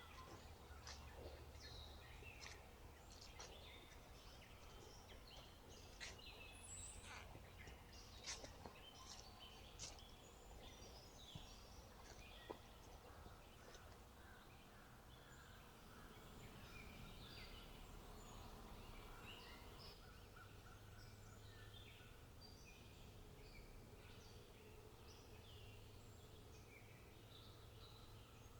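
Faint, scattered bird chirps and calls from several birds over a low background rumble.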